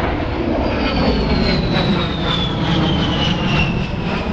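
A-10 Thunderbolt II's twin TF34 turbofan engines on a low pass: a loud jet rumble with a high fan whine that falls steadily in pitch as the jet goes by.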